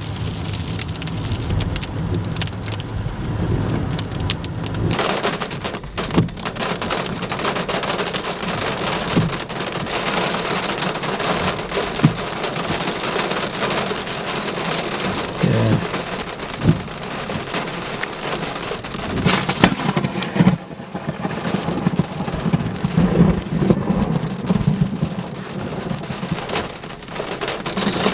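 Hail and heavy rain pelting down, a dense patter broken by frequent sharp knocks of larger hailstones, with thunder rumbling.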